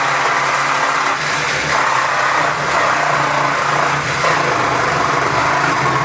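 Cordless power saw with a metal-cutting blade running steadily, cutting through the sheet-metal body of an old refrigerator.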